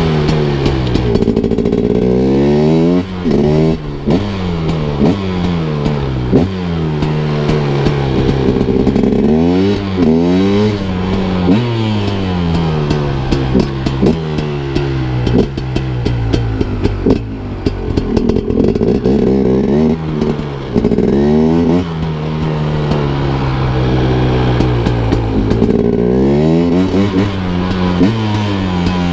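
KTM Freeride 250 R's single-cylinder two-stroke engine revving repeatedly. Its pitch climbs and drops back every second or two, with some clatter.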